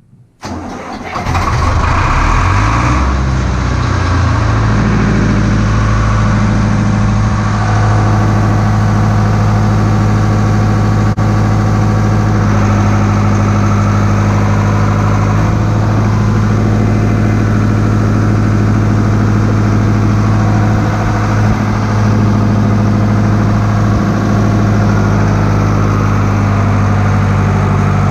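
Tractor engine starting about half a second in, catching unevenly over the first few seconds, then running steadily at a constant speed.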